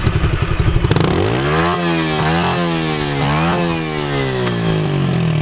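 Yamaha TT-R pit bike's small four-stroke single running rough for about a second, then revved up and down about three times before settling to a steady idle. This is typical of an engine being cleared after it flooded.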